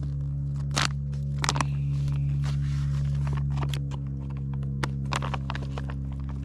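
Scattered sharp clicks and scrapes of a spoon and foil pouch while eating a rehydrated freeze-dried meal, over a steady low hum.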